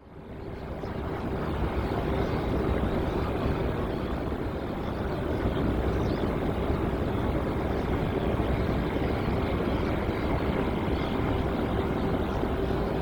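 Jet airliner engines, a steady roar with a steady hum through it, fading in over the first second or so.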